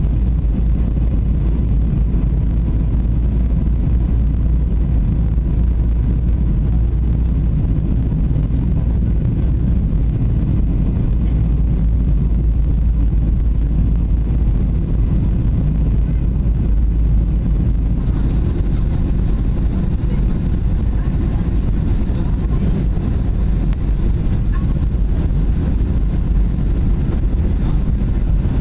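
Boeing 737 cabin noise: a steady low rumble of the jet engines and airflow, with a little more hiss from a bit past halfway.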